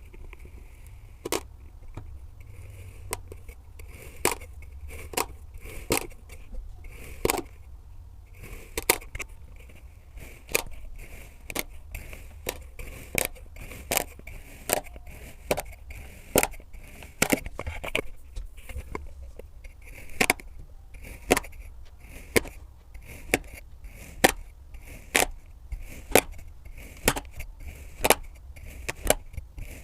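A knife slicing through kinetic sand: a long series of crisp, crunchy cuts, roughly one or two a second, over a faint low hum.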